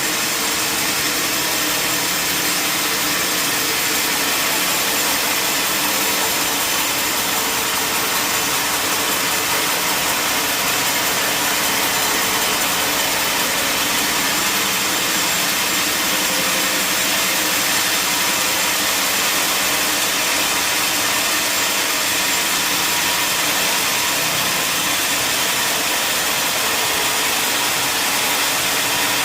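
Sawmill machinery running steadily, a constant mechanical noise with a strong hiss and faint steady tones under it.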